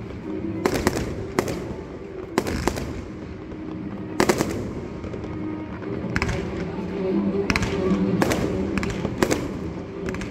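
Fireworks bursting, about a dozen sharp reports, some in quick pairs, with a loose cluster in the second half, over music playing underneath.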